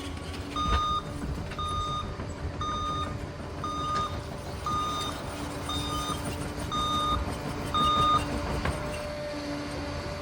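Crawler dozer reversing: its back-up alarm beeps about once a second, eight beeps in all, stopping about two seconds before the end, over the steady rumble of its diesel engine.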